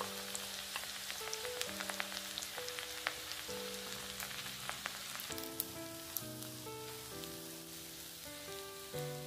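Oil sizzling in a nonstick wok as cooked rice is added to fried spring onions and stirred with a silicone spatula, with scattered crackles and ticks. Background music plays throughout.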